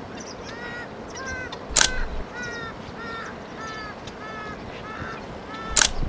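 A bird calling the same short note over and over, about twice a second, each note rising slightly and falling. Two sharp clicks cut in, the first nearly two seconds in and the second near the end.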